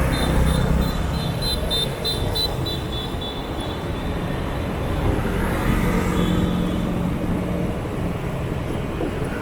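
Street traffic heard from a moving motorbike: scooter and car engines and tyre noise make a steady rumble. A rapid high-pitched beeping, about four pulses a second, runs for the first couple of seconds, and a vehicle's engine hum rises out of the traffic in the middle.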